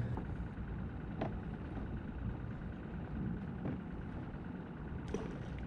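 A motor's steady low drone with a faint high whine above it, and a few faint ticks.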